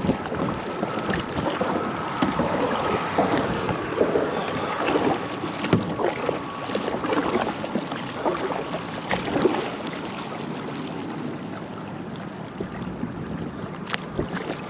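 Water splashing and lapping against a kayak, in irregular surges about once a second, with wind on the microphone.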